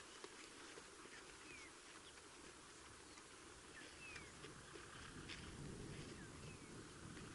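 Faint outdoor bush ambience, close to silence, with a few short, falling chirps from small birds scattered through it.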